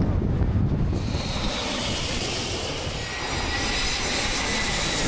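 Jet aircraft passing low overhead: a loud rush of engine noise with a thin, steady high whine.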